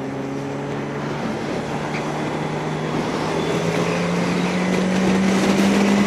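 Yamaha R1 inline-four sport bike engine under way, its note slowly rising as the bike gradually accelerates, with wind noise over the microphone. The engine note changes about a second in.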